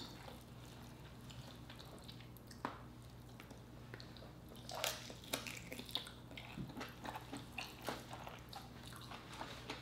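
Close-up mouth sounds of eating lobster tail meat: soft wet clicks and smacks of biting and chewing, sparse at first and frequent from about halfway through, over a low steady hum.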